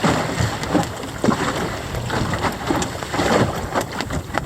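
Water rushing and slapping against a Mirror dinghy's hull as it sails through a swell, with wind buffeting the microphone in uneven gusts.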